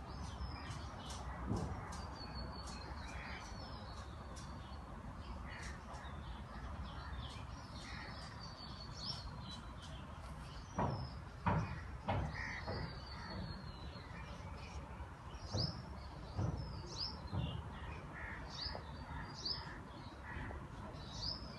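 Garden birds chirping and calling on and off, short high chirps and sweeps over a steady low background rumble, with a few louder short sounds a little past halfway.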